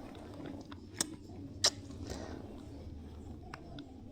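Two sharp clicks, the second the louder, and a few fainter ticks over low room noise.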